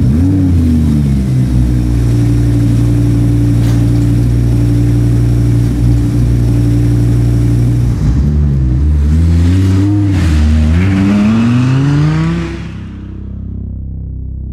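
Audi R8 engine revving once at the start, then idling steadily. It is blipped several times and then revved in one long rise before fading out, leaving a low drone near the end.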